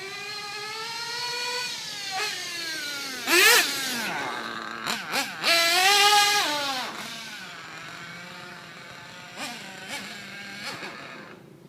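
Trackstar .21 nitro RC race engine running at high pitch and revving in surges, with two sharp bursts of throttle. It then drops to a lower, steadier note with a few short blips.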